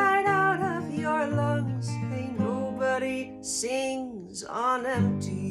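A solo voice singing a slow, sustained melody over fingerpicked and strummed acoustic guitar. A fresh guitar chord is struck about five seconds in and rings on.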